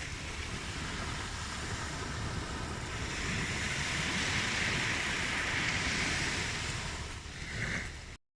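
Ocean waves washing on a shore, one swell building about three seconds in and easing off near the end; the sound cuts out briefly at the very end.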